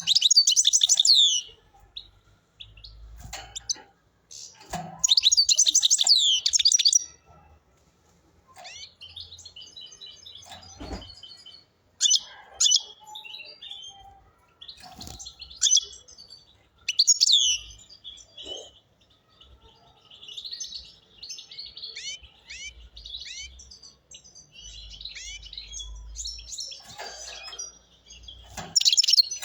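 A caged European goldfinch singing: loud bursts of rapid twittering and tinkling, fast-sweeping notes, broken by short pauses, with a longer run of quieter chattering song near the end.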